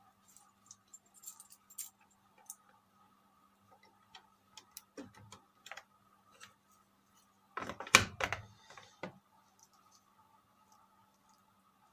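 Scattered small clicks and knocks of hands handling a motherboard, its cables and tools on a workbench, with a louder clatter about eight seconds in, over a faint steady electrical hum.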